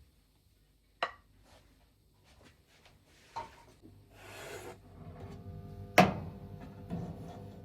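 Household handling sounds: a sharp click about a second in, a brief rustle, then a steady hum that starts about five seconds in, with a loud knock about six seconds in and a softer one just after.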